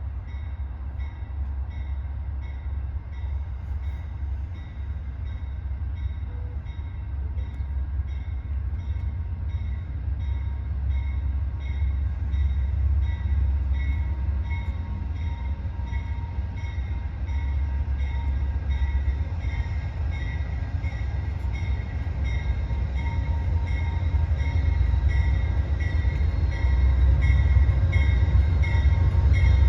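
A train approaching, its low rumble growing steadily louder, while a level-crossing warning bell rings on in an even, repeating rhythm.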